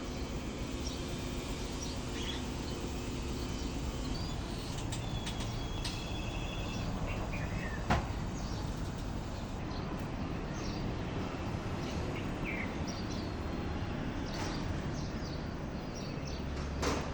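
Birds chirping: scattered short high calls over a steady background hiss, with a sharp click about eight seconds in.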